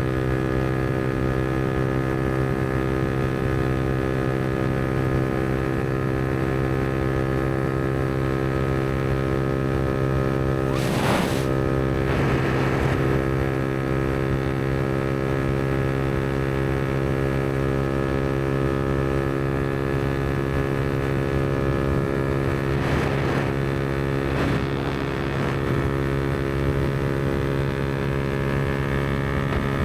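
Yamaha MT-125's single-cylinder four-stroke engine running through a Black Widow aftermarket exhaust, held at a steady pitch while cruising. Brief rushes of noise come twice around the middle and twice more near the end.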